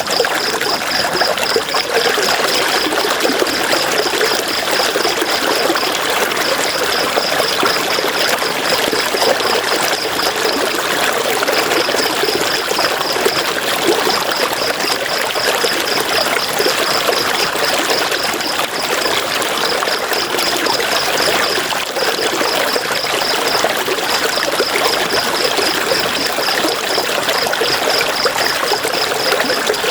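River water flowing and trickling steadily. Over it, a high, fast-pulsing trill comes in runs of a few seconds with short breaks.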